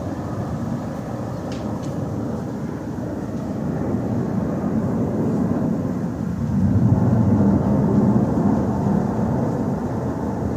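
Aircraft flying overhead: a steady low rumble that swells louder about two-thirds of the way through, then eases off.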